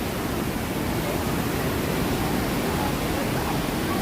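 Steady rush of water from a white-water raft ride's rapids and waterfalls.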